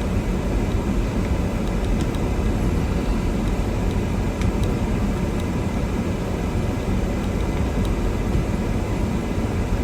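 Steady low rumble of a car driving slowly through snow in first gear with four-wheel drive engaged.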